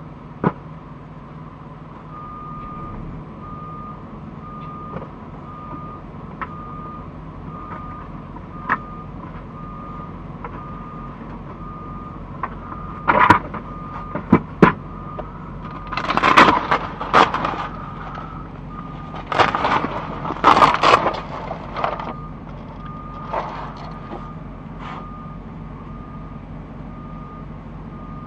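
A truck's reversing alarm beeps steadily over a constant low engine drone. There is a run of loud bangs and clattering in the middle, and one sharp click near the start.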